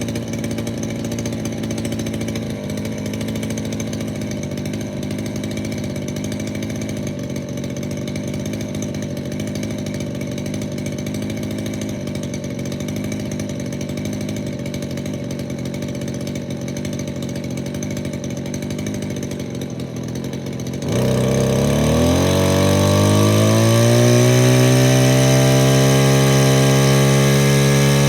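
Stihl FS86 two-stroke string trimmer engine idling steadily after a cold start, then revved up about 21 seconds in, its pitch rising and holding at a steady high speed.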